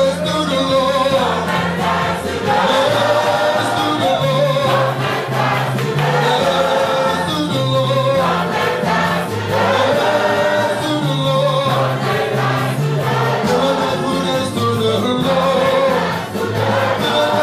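Gospel praise music: a group of voices singing over a bass line and drums.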